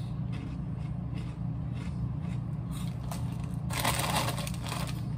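Close-up chewing of crunchy Flamin' Hot Cheetos, with many short crunches. About four seconds in, the chip bag crinkles loudly as a hand goes into it. A steady low hum sits underneath.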